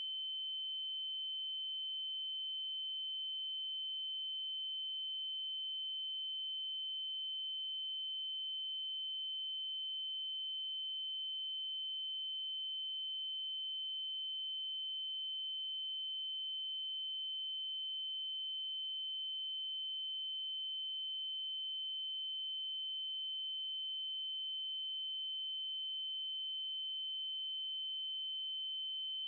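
Synthesized 3072 Hz triangle-wave test tone, one steady high-pitched pitch held without change.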